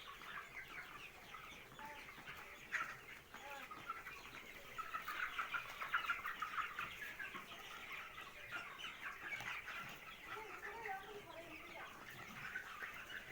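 A flock of broiler chickens calling continuously, many short high cheeps and clucks overlapping into a steady chatter that is busiest around the middle.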